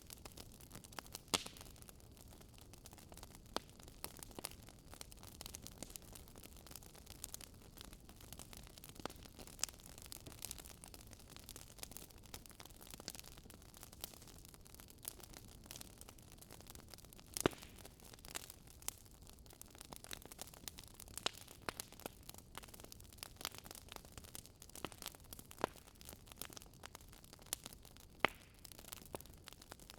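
Wood bonfire crackling: irregular sharp pops and snaps of burning wood over a soft hiss, with a few louder pops, about a second and a half in, midway and near the end.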